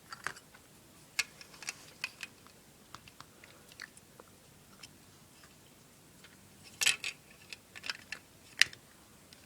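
Small plastic Lego pieces clicking and rattling as they are handled: scattered, irregular sharp clicks, with a louder cluster about seven seconds in and a single sharp click shortly before the end.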